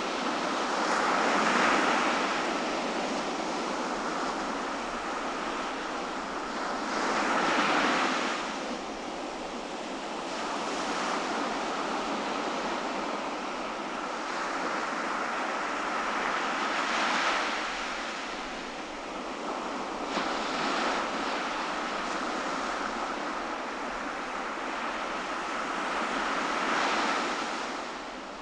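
Ocean surf washing onto a beach, a steady rush with waves breaking in swells every several seconds.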